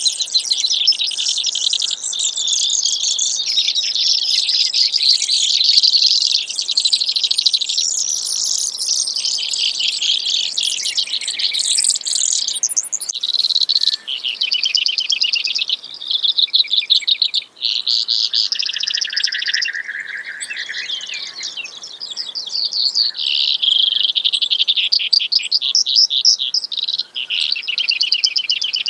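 Brewer's sparrow singing: a long, almost unbroken string of high trills and buzzes that keep changing speed and pitch, with one lower buzzy trill a little past the middle.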